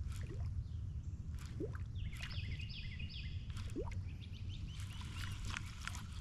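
Birds chirping outdoors, including a run of short, repeated high notes a couple of seconds in. Underneath is a low, steady rumble and a few scattered light clicks.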